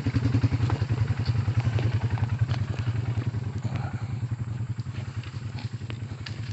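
Honda Rancher ATV's single-cylinder engine running at low speed, a steady pulsing note that eases off slightly toward the end, with a few scattered clicks.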